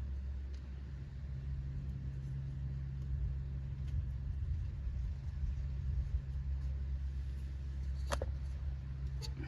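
A steady low mechanical hum, with two short sharp clicks near the end.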